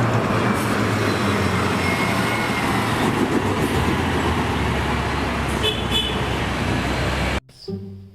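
Toy city bus's sound module playing a recorded bus engine and traffic sound effect: a loud, steady rumble with a short high beep near six seconds, cutting off suddenly about seven seconds in.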